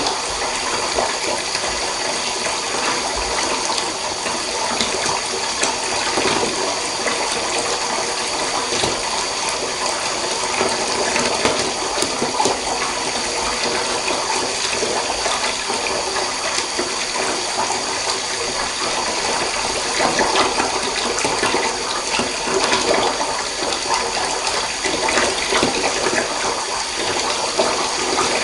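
Water running into a bath: a steady, continuous rush of pouring and splashing water.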